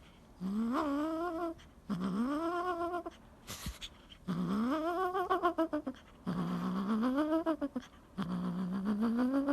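A pet animal making five drawn-out vocal calls, each about a second long and rising in pitch, with short pauses between them.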